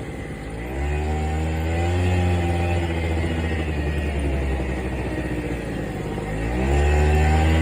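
ATV quad bike engine accelerating: it revs up about a second in, eases off gradually through the middle, then revs up again and is loudest near the end.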